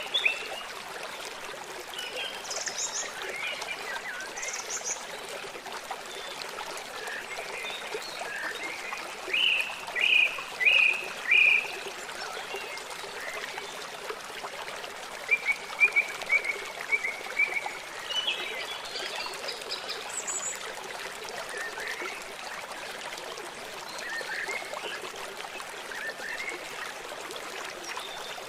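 Forest birds calling and singing over a steady rush of flowing water. The loudest is a quick run of short down-slurred notes about ten seconds in, with another run of chirps around sixteen seconds.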